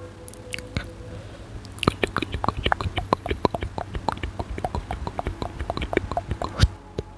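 Close-miked ASMR mouth sounds: quick, wet tongue clicks and lip smacks, layered densely, starting about two seconds in and stopping near the end.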